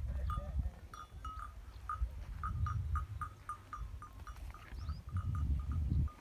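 Neck bells on a herd of sheep and goats clanking irregularly, about two or three strikes a second, over a low rumble.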